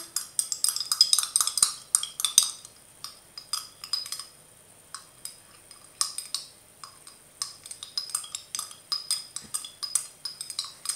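Spoon scraping and clicking against a yogurt container, scraping out the last of the strawberry yogurt. Quick, irregular clicks, thickest in the first couple of seconds, then sparser.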